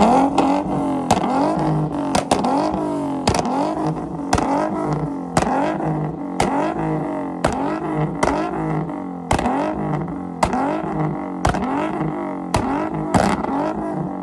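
A car engine revved hard over and over, about once a second, each rev rising and falling in pitch, with a sharp exhaust pop or bang on nearly every rev, typical of a car tuned to backfire and shoot flames from the exhaust.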